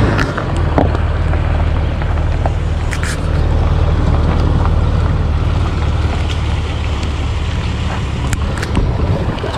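Jeep Wrangler engine running at low revs with a steady low hum as it reverses a boat trailer into the lake, with wind noise on the microphone.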